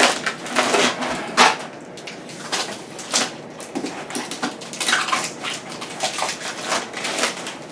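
Protective plastic film being peeled off a stainless steel refrigerator door, crackling and tearing in short irregular pulls.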